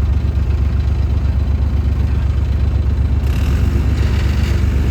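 A tractor's diesel engine running steadily with a deep drone; a higher rattling hiss joins about three seconds in.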